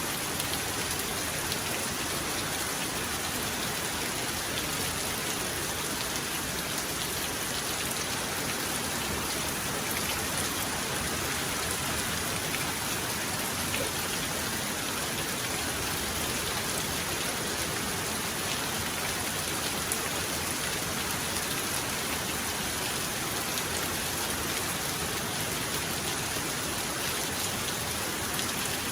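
Heavy rain falling in a steady, even hiss, with the odd single drop ticking through it. No thunder rumbles.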